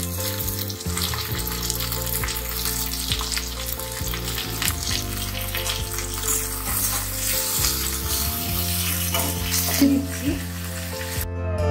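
Chopped onion, chilli and tomato sizzling in hot oil in a kadai, with a metal spatula scraping and ticking against the pan as the mixture is stirred.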